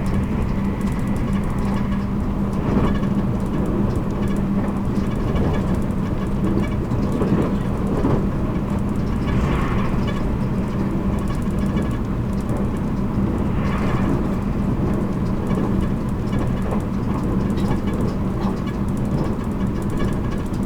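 JR Kyushu 783 series electric limited express train running, heard inside motor car MoHa 783-13: a steady rumble of wheels on rail with a steady low hum.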